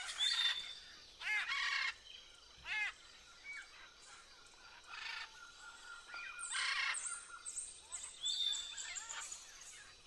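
Birds calling: a scattering of short chirps and whistles, several with a pitch that arches up and down, coming in small groups with quiet gaps between them.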